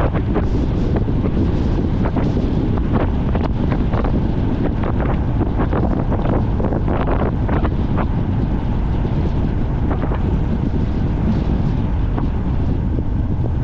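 Heavy, steady wind noise on the microphone over a low rumble, with frequent short knocks and rattles, as from a gravity race car rolling downhill at speed.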